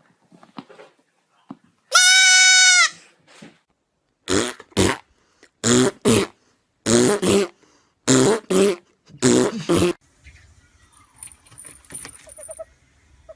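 An animal calling: one long, steady, high-pitched cry about two seconds in, then five pairs of short, harsh calls, the pairs coming about a second and a half apart.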